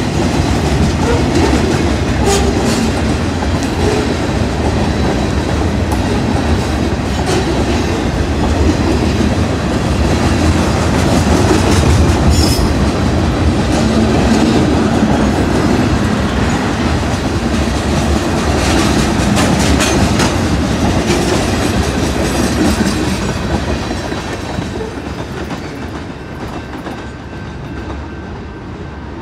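Freight cars of a BNSF local freight train rolling past: a steady rumble and clickety-clack of steel wheels on the rails, with occasional clanks. The sound fades over the last few seconds as the end of the train goes by.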